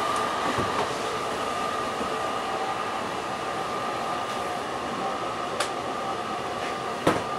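JR East E261 series 'Saphir Odoriko' electric train giving off a steady hum with a high held whine, with two sharp clicks near the end.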